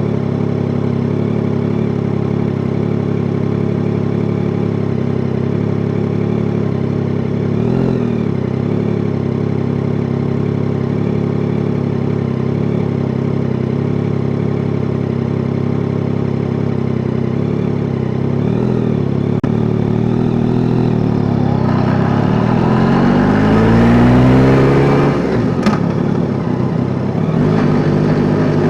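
Yamaha Tracer 9 GT's 890 cc inline-three engine idling steadily, then rising in pitch as it accelerates about three-quarters of the way through. A sharp click comes near the top of the rise, after which the engine settles back to a steady note.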